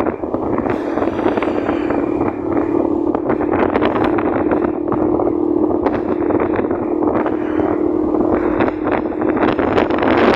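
Motorcycle engine running at a steady speed while riding, under heavy wind buffeting on the microphone.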